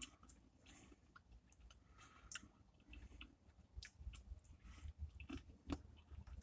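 Faint close-up chewing of a mouthful of ice cream with cookie and candy pieces, with a few soft clicks scattered through.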